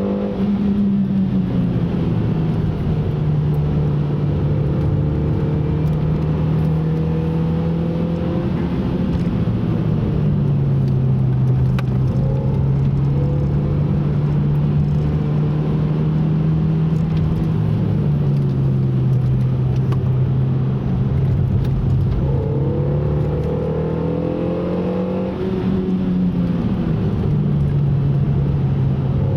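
Car engine running at steady speed, its note holding level with small drops in pitch a few times. It climbs in pitch for a few seconds late on, then drops sharply again.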